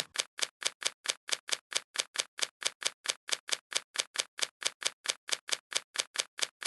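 Rapid, perfectly even taps, about four and a half a second, each one identical: a looped tapping sound effect.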